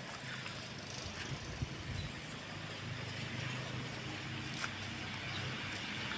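Steady outdoor background noise with a low hum and a couple of faint clicks.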